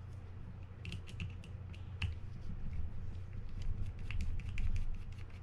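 Small screwdriver backing out the two small screws over the bail spring of a Fin-Nor Offshore 4500 spinning reel, with scattered light metal clicks and taps from the tool and screws.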